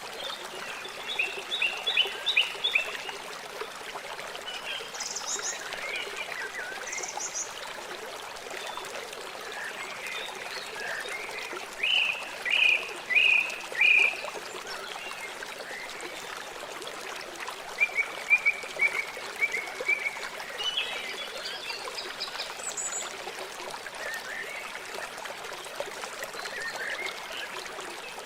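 River water flowing steadily with an even rushing hiss. Clusters of short high chirping calls sound over it: a few near the start, four loud chirps about halfway through, and a quick run of short chirps a few seconds later.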